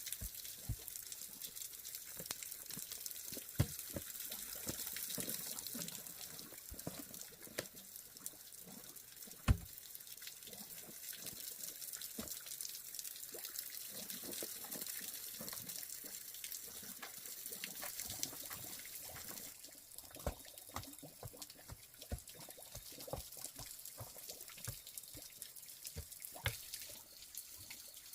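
Water trickling and dripping, with irregular small knocks and clicks throughout, two of them louder.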